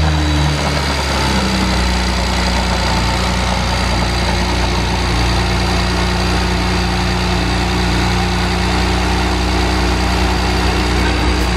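BMW 135i's turbocharged inline-six idling just after being started. The revs settle in the first second or so, then hold a steady idle.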